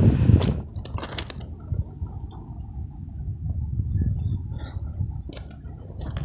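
Steady, high-pitched chirring of insects such as cicadas or crickets, over a low, uneven rumble.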